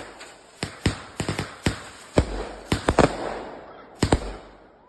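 Consumer fireworks going off: about a dozen sharp bangs at irregular spacing, several in quick clusters, each trailing a short crackle.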